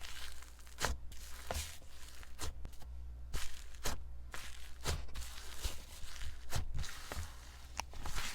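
Slime being squished and stretched by hand, giving a string of sharp sticky pops and crackles.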